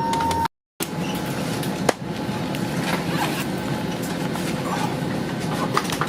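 Steady cabin ambience aboard a parked Airbus A320: an even rush of air-conditioning noise with scattered clicks and knocks, the sharpest about two seconds in, and a brief cut-out to silence near the start.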